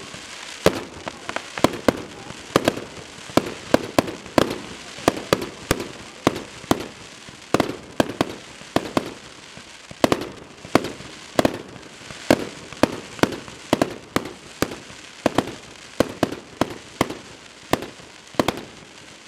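Fireworks going off in a rapid, uneven string of sharp bangs, several a second, each with a short echoing tail.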